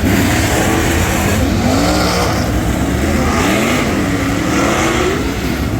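Dirt super late model's Ford 422 cubic inch V8 running hard, its pitch rising and falling several times as it revs up and down.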